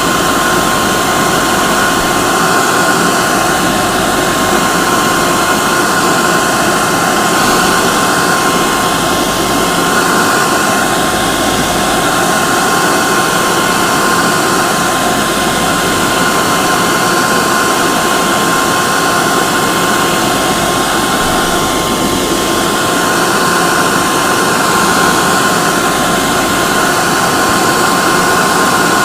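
Hair dryer running steadily: an even rush of blown air with a steady motor whine.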